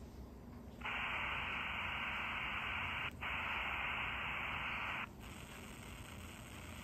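Miniature shortwave/CB band radio receiver hissing static through its small speaker, with no station coming through because the signal is very weak. The static comes on suddenly about a second in, breaks off for a moment, then cuts out after about four seconds.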